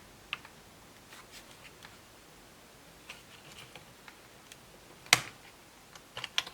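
Light clicks and taps of a DDR3 laptop memory module being handled and moved from one slot to the other, with one sharp, loud click about five seconds in and a couple more just before the end.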